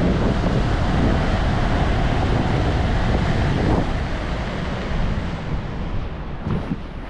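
Rushing wind buffeting a body-mounted camera's microphone during a wingsuit skydive, a loud steady roar of air with a faint steady tone in the middle that eases a little near the end.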